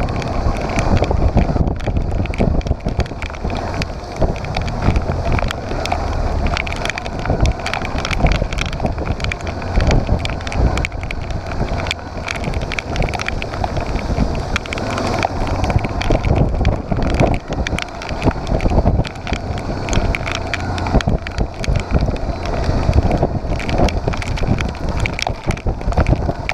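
Motorcycle riding along, its engine running under heavy wind noise buffeting the microphone.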